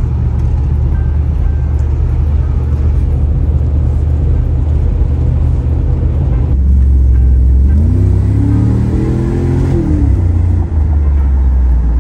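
1998 Saleen XP8's engine running steadily under way, heard from inside the cabin with road noise. About eight seconds in it revs up in a rising pitch for around two seconds, then settles back to a steady cruise.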